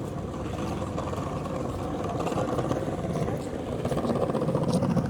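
Steady engine noise, growing somewhat louder toward the end.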